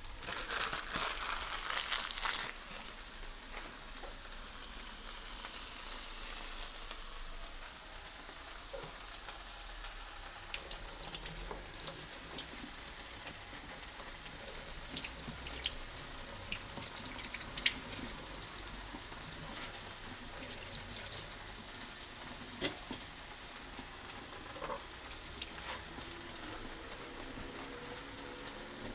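Food sizzling in a frying pan, louder for the first couple of seconds, then a steady hiss with scattered crackles.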